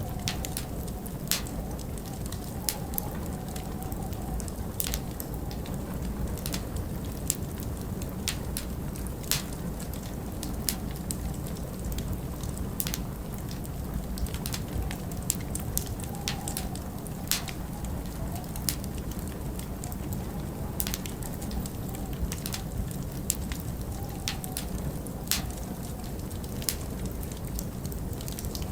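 Wood fire in a fireplace crackling, with frequent irregular sharp pops and snaps over a steady low rumble of flames and storm wind.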